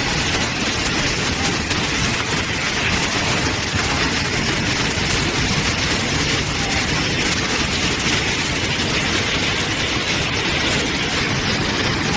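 Steady, loud rushing of water with no break, the sound of a heavy downpour or flood.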